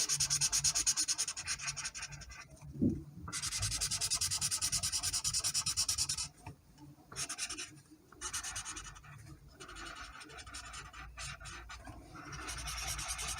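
Colouring tool rubbing quickly back and forth on paper, filling in a drawing, in several stretches broken by short pauses.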